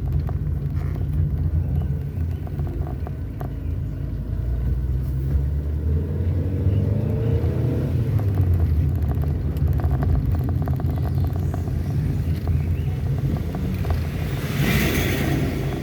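Vehicle engine and road noise heard from inside the cab while driving, a steady low drone with rattling; the engine pitch rises about halfway through, and a brief hiss comes near the end.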